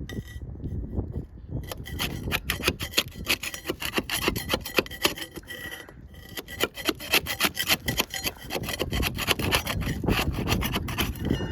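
Sanding the hull of a sailboat to strip old anti-fouling paint: rapid, uneven rubbing strokes against the surface. The strokes ease off briefly about six seconds in, then pick up again.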